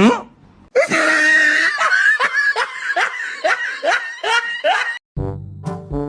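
Loud laughter in a quick run of rising bursts, about three a second, lasting about four seconds. It opens with a short rising glide, and music starts just before the end.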